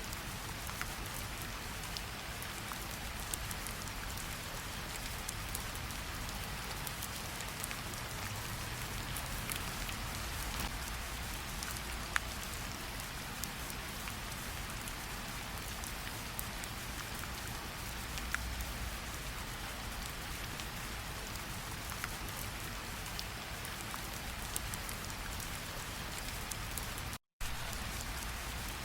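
Steady rain falling, with scattered single drops ticking close by. The sound cuts out completely for a split second near the end.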